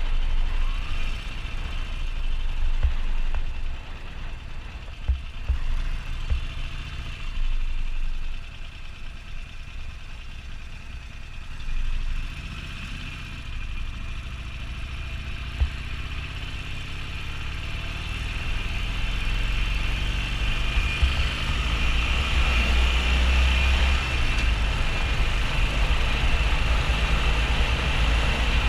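Harley-Davidson XL1200N Sportster's air-cooled V-twin running on the move, mixed with wind rush on the camera. The engine note climbs steadily from about the middle as the bike gathers speed, and the wind noise grows louder toward the end.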